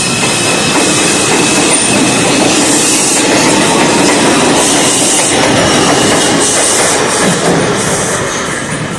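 R142 subway train running through the station, a loud steady rumble with the clatter of wheels over the rails; it eases off near the end.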